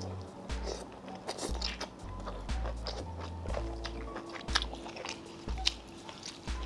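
Close-up eating sounds of a person chewing a mouthful of soup-soaked fatty beef slices, with many short, sharp mouth clicks. Background music with a low bass line plays underneath.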